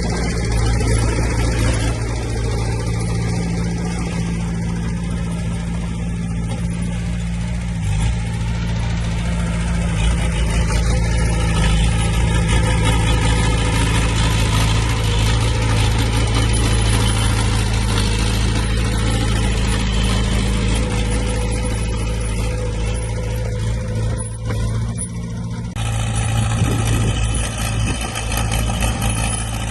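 Diesel engines of heavy earthmoving machines running steadily, with a change in the machine noise about 26 seconds in.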